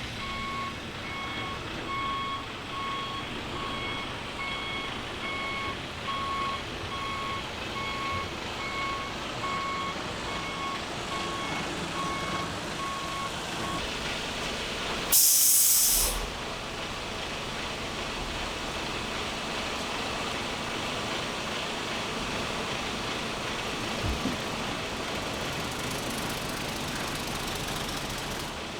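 Large truck's reversing alarm beeping at about one beep a second over a running diesel engine; the beeping stops about halfway. Shortly after comes a loud, sharp hiss of air brakes, lasting about a second.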